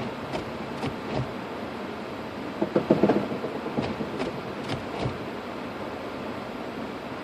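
Steady noise inside a car's cabin, with scattered light clicks and a brief cluster of louder knocks about three seconds in.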